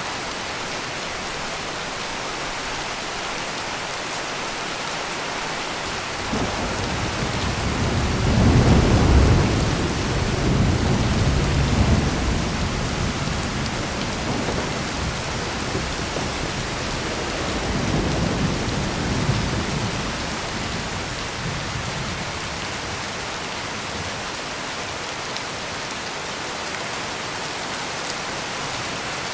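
Heavy rain falling steadily in a thunderstorm, with a roll of thunder building about six seconds in, loudest around nine seconds, and fading out over several seconds, then a second, weaker rumble a little past the middle.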